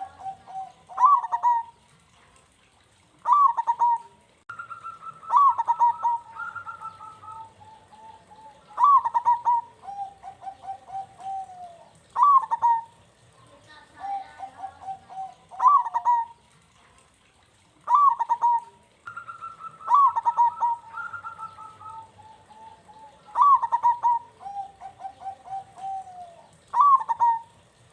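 Zebra dove (perkutut) cooing: a repeated phrase of a sharp rising note followed by a quick run of short, lower, trilling coos, coming about every three to four seconds. Twice a higher, longer note runs alongside the phrase, like a second dove calling with it.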